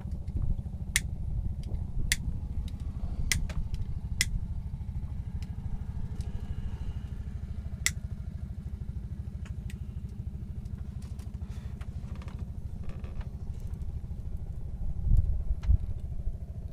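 A steady low motor rumble, like an engine ticking over, with a handful of sharp clicks over the first several seconds.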